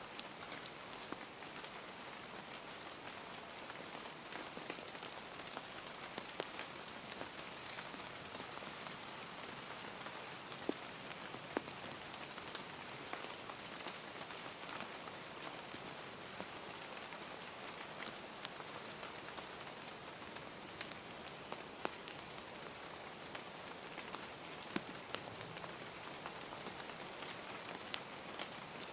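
Steady rain falling, an even hiss with many individual drops ticking and pattering on a surface.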